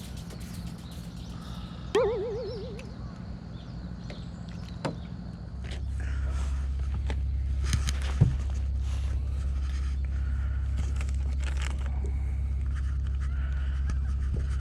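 A short warbling, wavering call about two seconds in, then a steady low motor hum that comes in about five and a half seconds in and keeps running, with a few scattered clicks.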